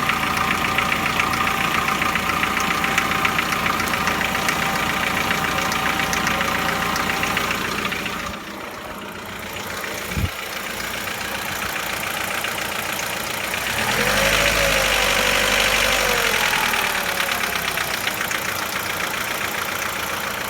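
Chevrolet Lacetti 1.6 four-cylinder petrol engine idling with a fast, even knock. The owner says the knock is loud when the engine is cold and almost gone when it is warm. About halfway through, the sound drops and there is one sharp knock, then the engine note rises and falls back briefly before settling.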